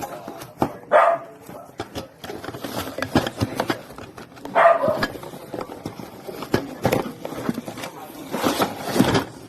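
A dog barking, three barks a few seconds apart, over a steady clatter of short clicks and noise.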